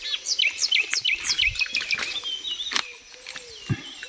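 Small birds chirping: a fast run of short, high, falling chirps in the first half, then quieter scattered calls. A single sharp click comes just before three seconds in.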